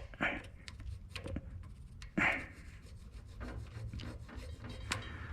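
Light clicks and short scrapes of a metal plate and parts being handled and fitted, with one louder scrape about two seconds in.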